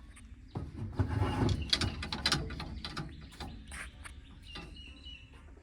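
A bird chirping repeatedly in short calls, with a stretch of clatter, clicks and rustling from handling work about half a second to three seconds in.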